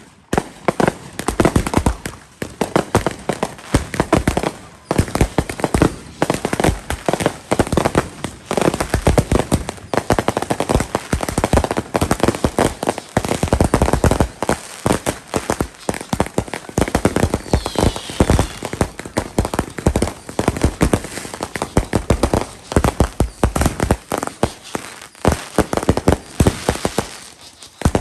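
Firecrackers going off in a long, rapid barrage of sharp cracks and bangs, many per second, with a few brief lulls.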